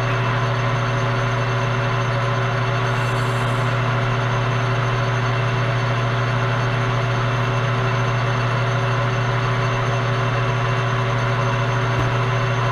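Milling machine spindle motor running steadily, a constant hum with several steady tones, turning a number 12 stubby drill bit.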